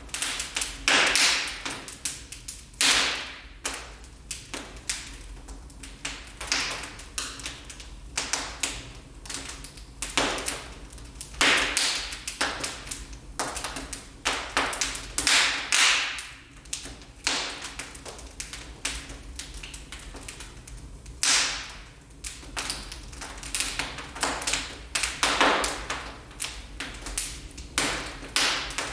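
Wood fire burning in a fireplace, crackling and popping: irregular sharp pops, a few seconds apart, with several louder bursts of crackling.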